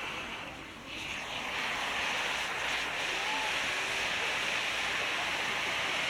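Hand-held bamboo-tube fountain fireworks (fukizutsu hanabi) spraying sparks with a steady rushing hiss. The hiss dips briefly just before a second in, then comes back.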